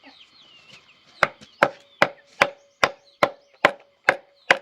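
Hammer blows struck at a steady pace, about two and a half a second, starting a little over a second in. Each blow has a brief ringing note.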